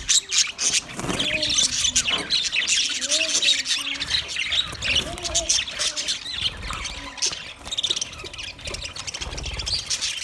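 A flock of budgerigars chattering and squawking continuously, a dense mix of rapid chirps, warbles and harsh squawks.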